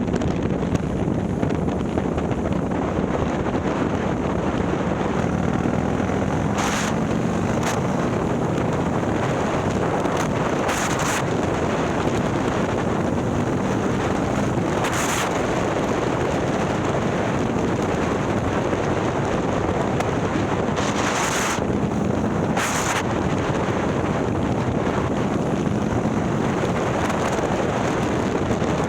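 Wind rushing hard over the microphone of a motorcycle under way, with the 130ci Milwaukee-Eight V-twin and ThunderHeader exhaust of a Harley-Davidson Ultra Limited running steadily underneath. About six short, sharp bursts of noise cut through the wind at irregular moments.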